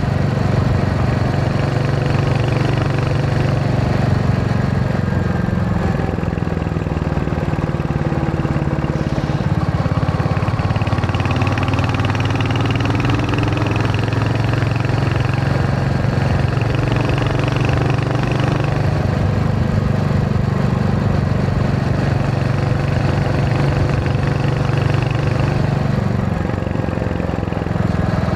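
Royal Enfield Hunter 350's single-cylinder engine running steadily on the move, its note shifting a little with the throttle and dipping briefly near the end.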